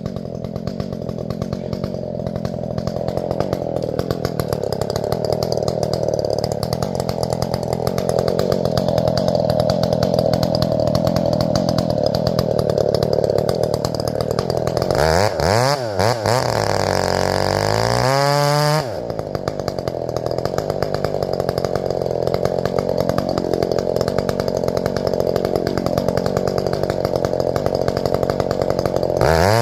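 Two-stroke chainsaw cutting into the trunk of a fir, running steadily under load. About halfway through it revs up and down sharply a few times, then settles back into the cut.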